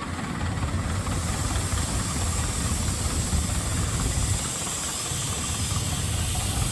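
An engine running steadily with a rapid low pulsing, a steady hiss above it, dipping briefly a little past the middle.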